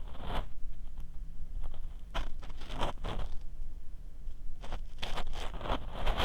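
Ear pick scraping inside the ear of a 3Dio binaural microphone: close, gritty scratching strokes in three runs with short pauses between them, over a low rumble from the handling.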